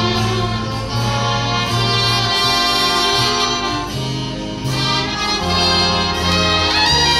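A big band playing a slow jazz tune: held chords from the brass and saxophones over a bass line, with a rising run near the end.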